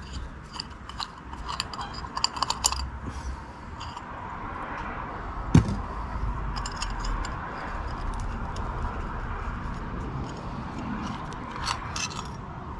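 Hand tools clicking and clinking on metal as the nuts and studs holding the solenoid on an old Renault starter motor are worked loose. The clicks come in clusters, with one sharp knock about five and a half seconds in.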